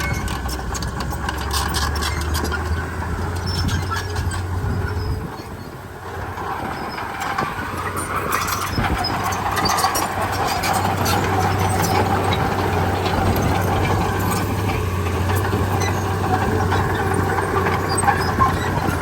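Heavy diesel earthmoving engine running, its low hum dropping away about five seconds in and building back up a few seconds later, with scattered metallic clanks and squeaks.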